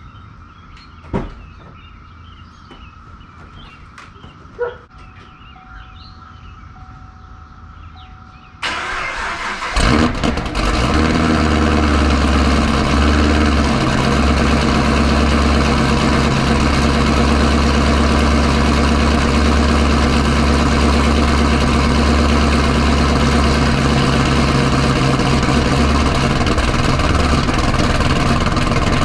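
Chevrolet Camaro ZL1's supercharged V8 cold-started: after two short knocks in a quiet spell, the starter cranks for about a second, the engine catches with a loud flare, then settles into a steady idle.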